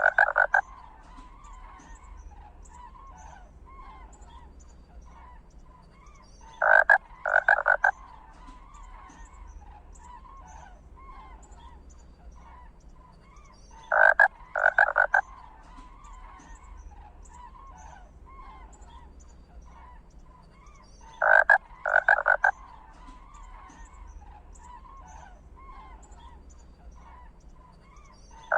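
Loud croaking animal calls, each a group of three short rasping bursts about a second long, repeating at even intervals of about seven seconds, over faint chirping in the background.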